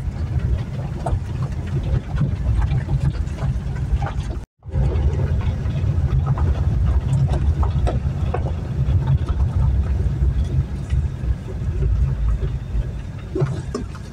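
Low, steady rumble of a running vehicle engine with light rattling, broken by a brief total dropout a few seconds in.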